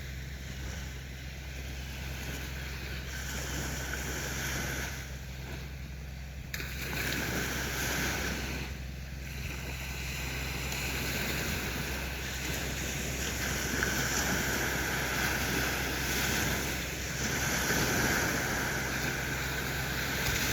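Sea waves washing onto a beach, the surf swelling and falling back in slow surges, over a steady low hum.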